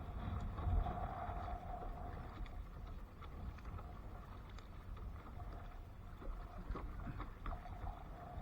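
Kayak out on the water: wind rumbling on the microphone over water sloshing against the hull, with a few light knocks in the second half and a faint steady hum that fades in and out.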